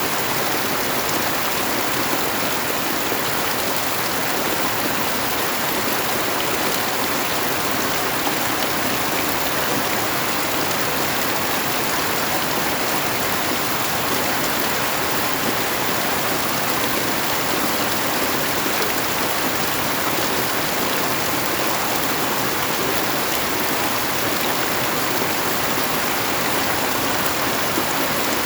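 Steady rain falling: an even, unbroken hiss with no separate drops or breaks standing out.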